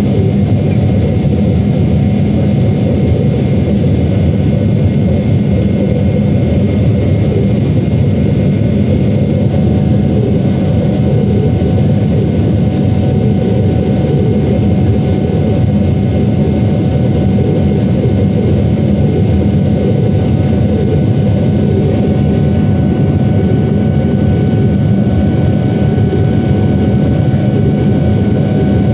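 Steady jet engine noise heard inside the cabin of a Boeing 777-300ER: a loud, even rumble with a few faint steady whining tones above it. The engines are GE90-115B turbofans.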